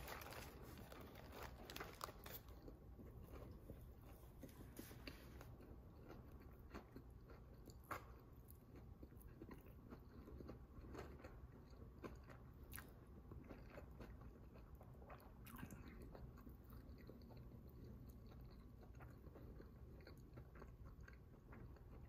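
Faint mouth sounds of someone biting into a fried chicken sandwich with crispy chicken and bacon, then chewing it with scattered small crunches. The crunches are thickest at the start and thin out later.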